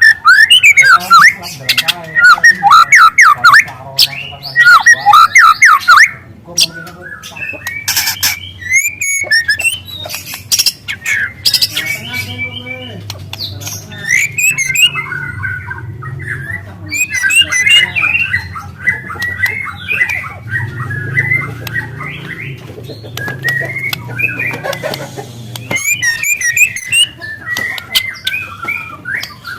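Juvenile white-rumped shama (murai batu) singing a long, varied song of quick trills and rising and falling whistles, loudest and most rapid in the first six seconds.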